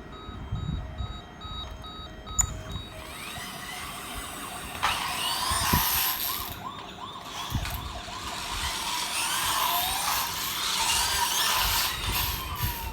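Electronic police siren wailing in overlapping rising and falling sweeps with steady beeping tones, growing louder about five seconds in.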